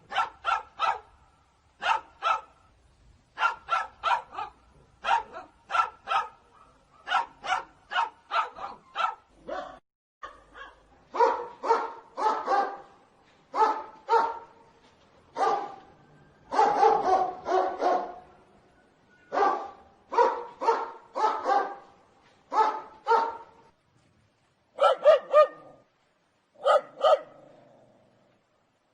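Dog barking over and over in quick runs of two to four barks with short gaps between. From about ten seconds in the barks sound lower and fuller.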